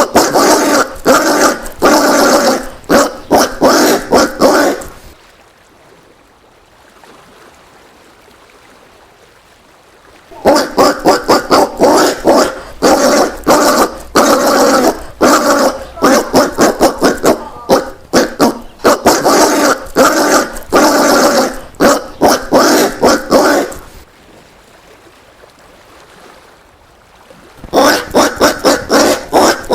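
Collared peccary calls: rapid runs of short repeated calls, broken by two pauses of a few seconds, about five seconds in and again about twenty-four seconds in.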